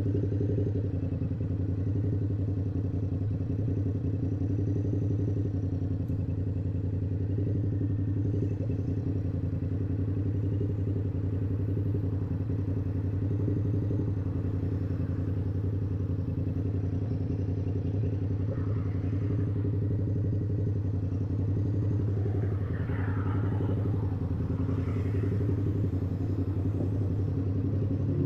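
Yamaha YZF-R7's 689 cc parallel-twin engine running through an aftermarket SC-Project exhaust, holding a steady note with no revving.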